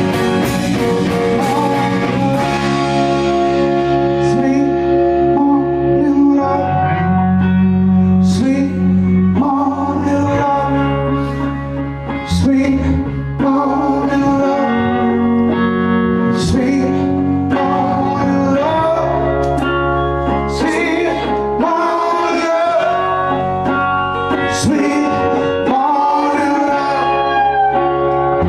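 Live blues-rock band playing: electric guitar and bass with drums, and a male voice singing over it for much of the stretch.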